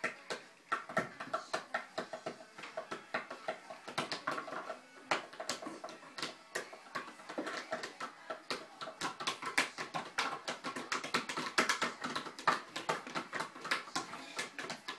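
A child drumming: a fast, uneven patter of light taps that keeps up throughout.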